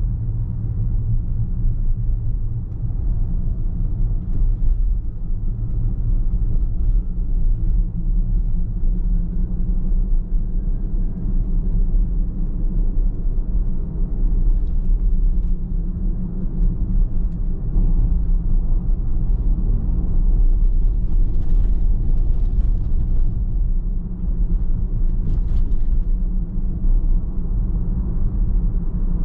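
Car on the move: a steady low rumble of road and engine noise, with no sharp events.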